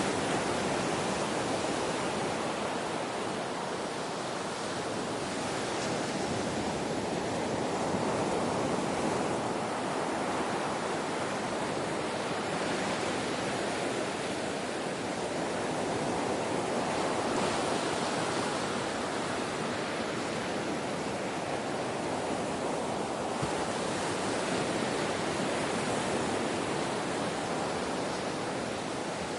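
Ocean surf: a steady rush of breaking and washing waves that swells and eases every several seconds.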